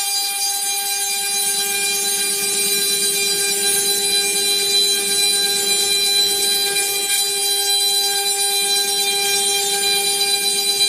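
High-speed spindle of a five-axis CNC machining centre running at a constant speed, giving a steady high whine with a hiss over it.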